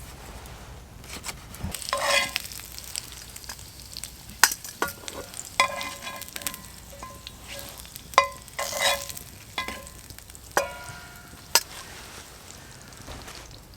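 Food frying and being stirred in a metal pan. The utensil strikes and scrapes the pan in a dozen or so irregular, ringing metallic clinks.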